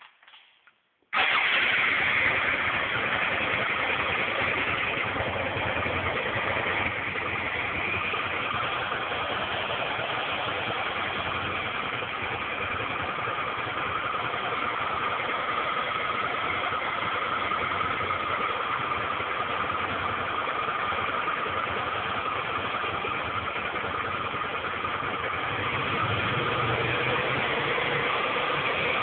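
Suzuki SV650 90-degree V-twin motorcycle engine starting about a second in and then idling steadily, with the clack-clack from the rear cylinder that the owner is asking about. It gets slightly louder near the end.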